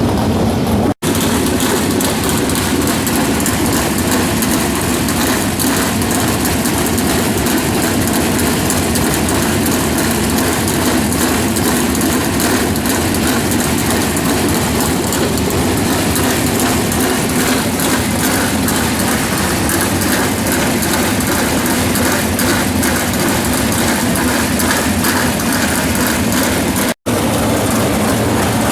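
Engines of USAC race cars running hard in a pack during a race, a loud, steady wall of engine noise. The sound drops out for an instant about a second in and again near the end.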